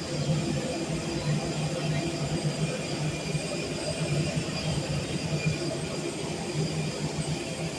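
Steady mechanical drone of a parked airliner during boarding: a constant low hum with a faint high whine over it.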